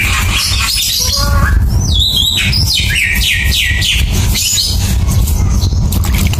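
A bird chirping, with a quick run of short, high, falling chirps about two seconds in, over a steady low rumble.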